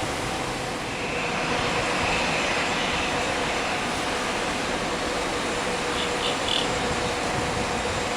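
Jet airliner engines running, a steady rushing noise with a steady hum through it. Three short high blips come about six seconds in.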